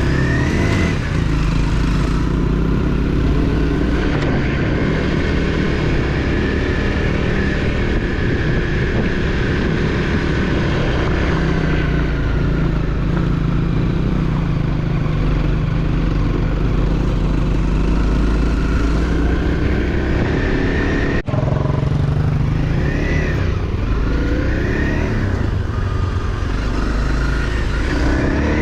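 Off-road motorcycle engine running loud and continuously under changing throttle, its pitch rising and falling as it is ridden over rough ground. The sound cuts out for an instant about three-quarters of the way through.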